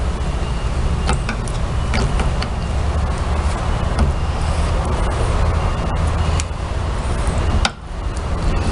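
Small clicks and knocks of washing-machine transmission parts being handled and fitted, scattered through a steady low rumble. A brief dip in the rumble comes near the end.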